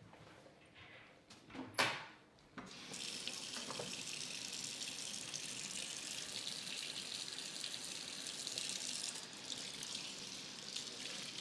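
A single knock near two seconds in, then a tap turned on and water running steadily into a sink from about three seconds in.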